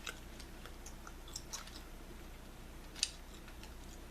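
Bubblegum chewed close to the microphone: scattered wet clicks and smacks, with one sharper snap about three seconds in.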